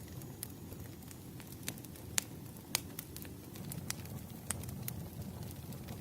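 Wood fire crackling in a fireplace: a steady low rumble of flames with sharp, irregular pops and snaps, the loudest a little past two seconds in and again just under three seconds in.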